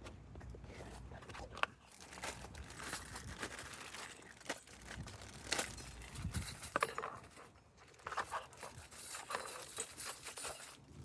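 Irregular clicks and clinks with rustling and scraping: handling noise of small objects being moved about.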